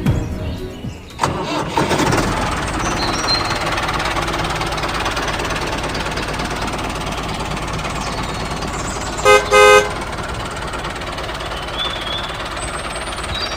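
Steady engine-like running noise from a vehicle, with a horn tooting twice in quick succession about nine seconds in.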